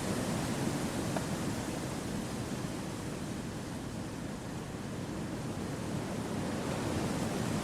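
Gentle wind blowing through forest trees: a steady, low rushing noise that eases a little midway and swells again near the end.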